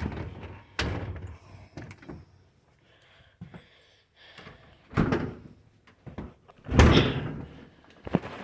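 A house door being opened and shut: a few sudden thuds and knocks, the loudest about seven seconds in.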